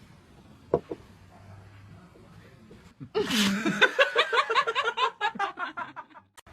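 A person laughing in a quick run of short, evenly spaced bursts for about three seconds, starting about three seconds in and cutting off sharply.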